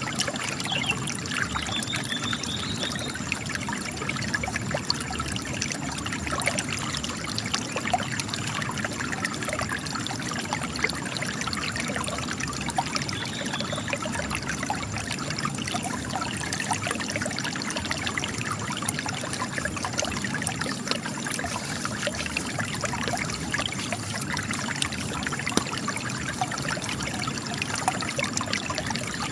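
Spring water trickling and splashing steadily out of cracks in rock, a continuous patter of small splashes.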